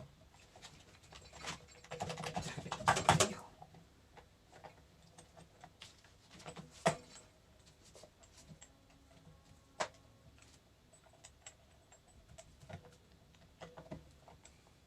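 Metal parts and bolts of a hydraulic control valve being handled and fitted by hand. A brief dense rattle comes about two to three seconds in, followed by scattered small clicks and two sharp single clicks near seven and ten seconds.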